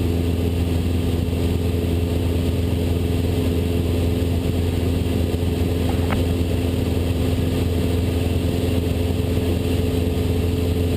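Cessna 172's piston engine and propeller droning steadily in cruise, heard inside the cockpit. A faint tick comes about six seconds in.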